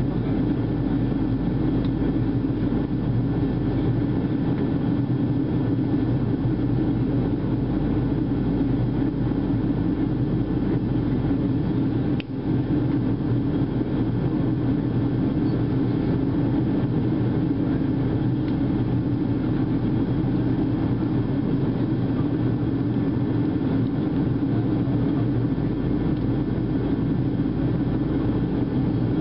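Steady cabin drone of a Boeing 737-700 in flight, heard from inside the passenger cabin: the CFM56-7B turbofans and the rushing airflow make a constant low hum and hiss, with one very brief break about twelve seconds in.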